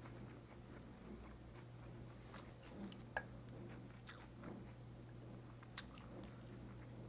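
Close-miked chewing of a bulgogi and lettuce wrap: soft wet mouth sounds with scattered small crunches and clicks, one sharper click about three seconds in, over a faint steady low hum.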